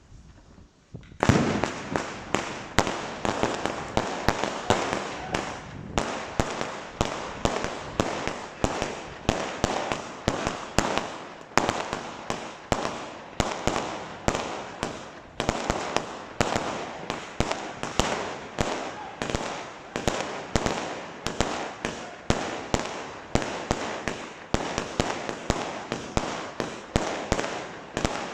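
Fireworks going off: after a moment of quiet, a loud bang about a second in, then a steady rapid string of sharp bangs, two or three a second, with crackling between them.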